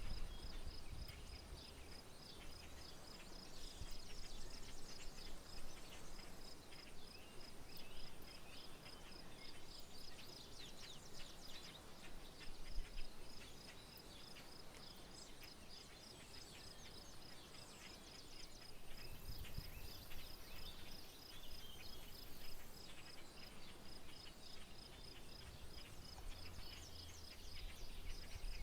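Rural outdoor ambience: an insect trills steadily in rapid pulses, breaking off a few times, while birds chirp sporadically. Low gusts of wind rumble on the microphone now and then, most strongly about two-thirds of the way through.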